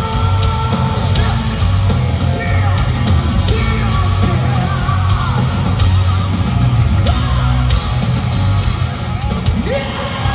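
Hard rock band playing live through a large PA, with distorted guitars, heavy bass and drums and a shouted lead vocal, recorded loud and boomy from the audience.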